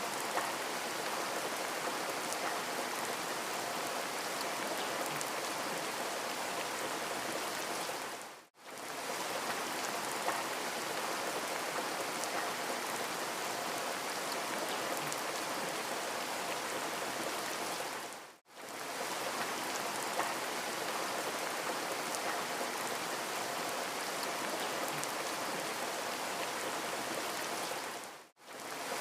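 Steady rain falling, an even hiss of drops. The sound fades out briefly and fades back in about every ten seconds, three times, as a short rain recording loops.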